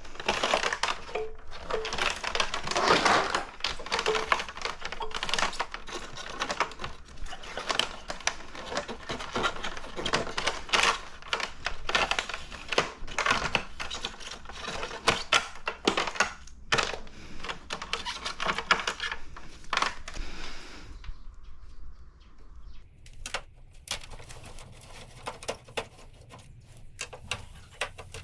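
Rapid, irregular clicking and clattering of hard plastic parts being handled, with a thinner, sparser stretch about two thirds of the way through.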